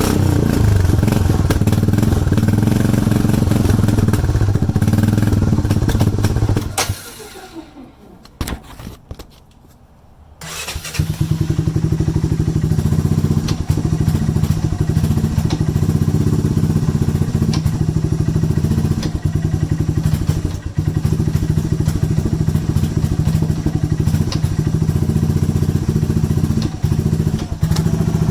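ATV engine running after a cold start, its exhaust note loud and steady; about seven seconds in it stops, and some three seconds later an engine is running again.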